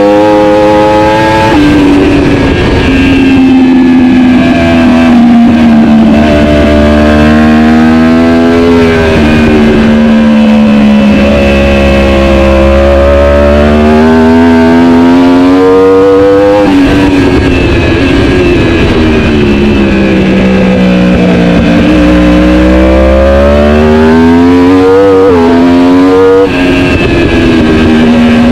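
Superbike racing motorcycle engine running hard at high revs, its pitch sweeping slowly up and down with the throttle. Its pitch jumps abruptly three times, at gear changes.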